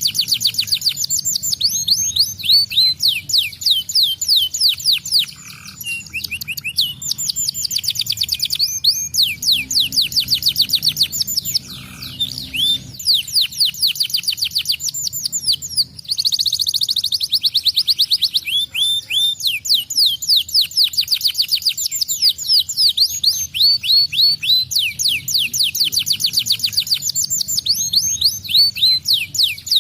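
Canary singing a long, fast song of rapid trills: runs of quickly repeated high notes, each run changing to a new note type every few seconds, with brief breaks.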